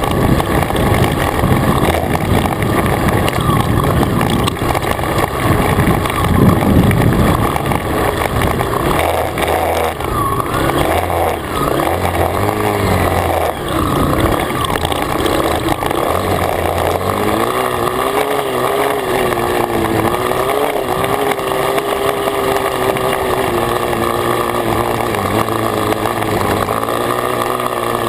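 Dirt bike engine running, with a heavy rushing rumble in the first several seconds; later the engine note wavers up and down in pitch.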